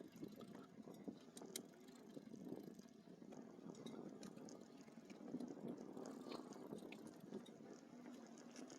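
Faint, steady rolling noise of an e-bike moving along a trail, with a few small clicks and rattles.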